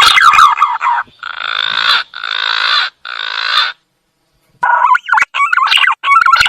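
Green pigeon (punai) calling: a run of wavering, warbling whistles, then three longer, rougher notes starting about a second in. After a short pause the warbling whistles return.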